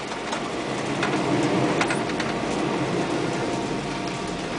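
Steady engine and cab noise inside a moving fire truck, with a couple of faint clicks or rattles about one and two seconds in.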